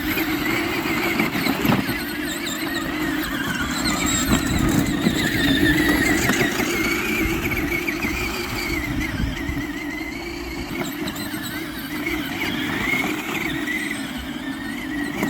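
Tonka ride-on toy truck's electric drive running with a high, wavering whine over a steady rumble.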